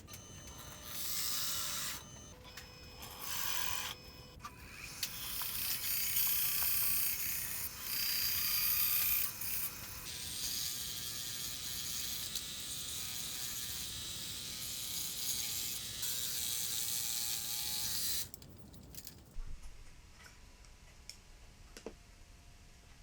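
Small electric motor whirring in several runs of one to eight seconds, then stopping about 18 seconds in.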